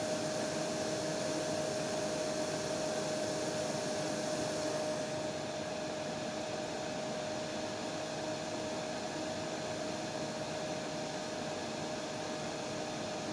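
Hair dryer running steadily: an even hiss with a steady humming tone. About five seconds in, the hiss loses some of its top and gets slightly quieter.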